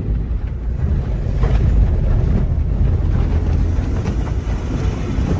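Car rolling along an unpaved farm road: a steady, loud low rumble of tyres and running gear with wind buffeting the microphone, and a couple of faint knocks.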